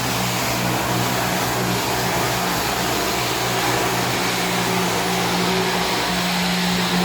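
Automatic floor-cleaning machine running steadily: a constant motor hum under a loud, even whirring hiss.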